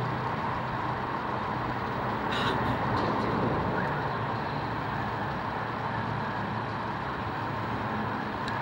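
Jet engines of a Boeing 777-200ER passing overhead on approach to land: a steady, even rushing noise with no break.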